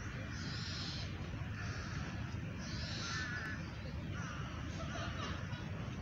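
Birds calling outdoors: a series of short, harsh calls scattered through the few seconds, over a steady low hum of city traffic.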